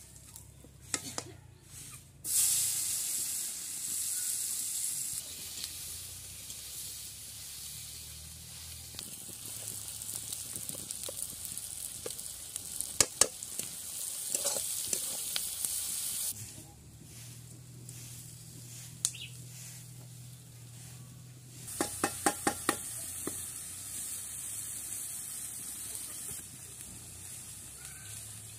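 Vegetables frying in hot oil in a black iron kadai, sizzling steadily while a metal spatula stirs and scrapes the pan. The sizzle starts loudly about two seconds in, drops back for a few seconds past the middle, then picks up again with a quick run of sharp metal taps.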